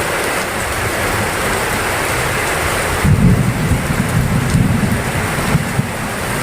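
Heavy rain falling steadily, with a low rumble of thunder coming in about halfway through and rolling on for a few seconds.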